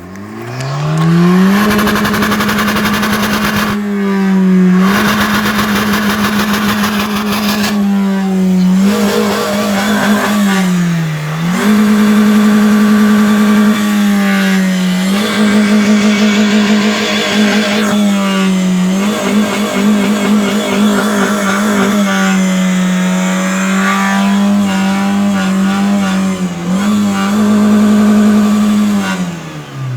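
Car engine revved hard and held at a steady high pitch with the throttle floored, dipping briefly about six times as the pedal is let up and pressed again, then falling back near the end.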